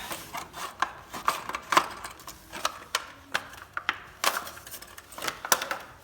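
Irregular clinks and knocks of metal tractor hitch parts being handled as a pin is fitted into the 3-point hitch, a few taps louder than the rest.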